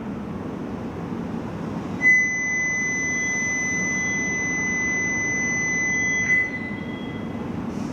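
Shinkansen platform door-closing warning buzzer: one steady high beep starting about two seconds in and lasting about four seconds, over a low station hum, signalling that the train doors are closing.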